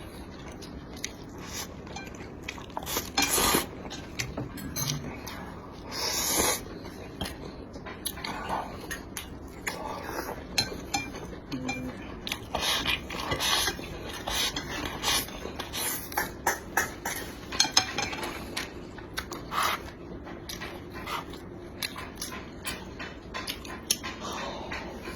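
Close-miked eating sounds: chewing, with many short clicks and scrapes of utensils against dishes and a few louder bursts about three and six seconds in.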